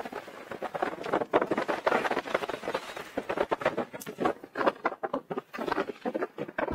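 Strong wind buffeting the microphone in uneven gusts, heard as a rapid, irregular crackling.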